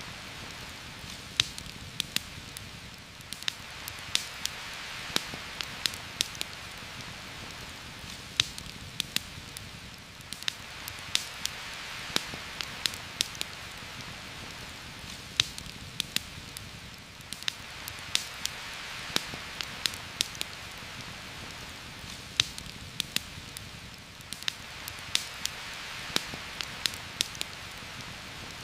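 Heavy rain falling steadily through forest leaves, swelling and easing about every seven seconds, with frequent sharp clicks and pops scattered throughout.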